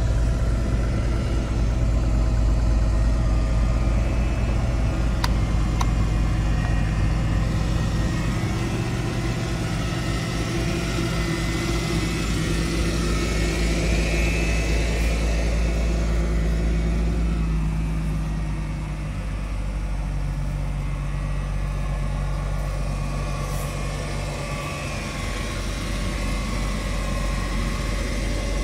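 Mercedes-Benz car engine running at a steady idle, a low even hum that dips slightly about two-thirds of the way through.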